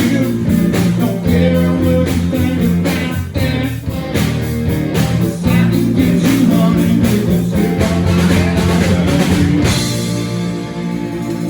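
Rock band playing live, with guitars and drum kit; near the end the drums drop out and the guitar chords ring on.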